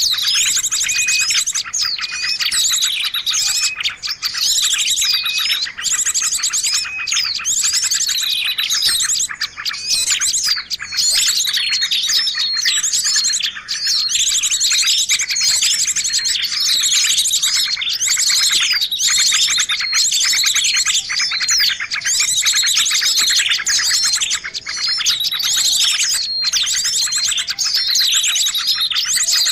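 Dense, noisy chorus of many small birds chirping and trilling at once, with rapid repeated high notes overlapping continuously: a bird-lure recording of 'ribut' (noisy) birdsong used to attract birds.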